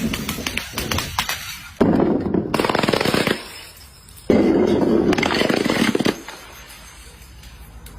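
Glass bottles breaking and clattering on stairs, a dense rattle of many rapid glass impacts. A first clatter dies away in the opening second, then two bursts of about a second and a half each follow, around two and four seconds in.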